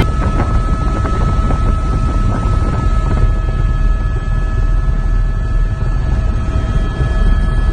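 Helicopter engine and rotor noise, running steadily and loudly, with a steady high whine through it.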